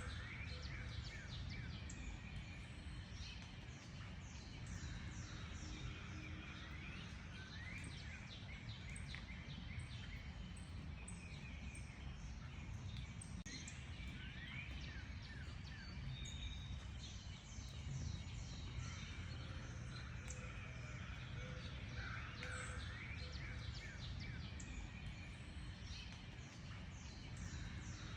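A chorus of many birds chirping and calling over one another, with quick high chirps repeating throughout over a steady low background rumble.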